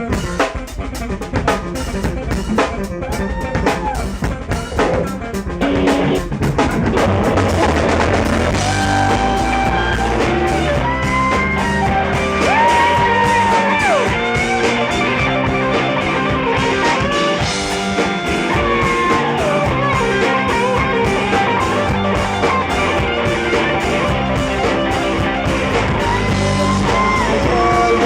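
Rock band playing an instrumental passage: drums alone at first, then bass and guitar join about six seconds in, with bending guitar notes over a full-band groove.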